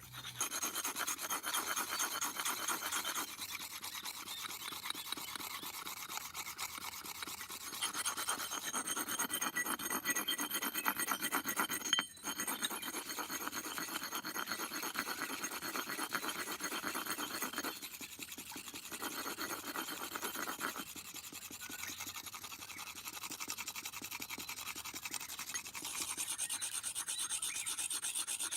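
Rapid, continuous rasping strokes of hand filing, with a brief break about twelve seconds in and several shifts in tone as the strokes change.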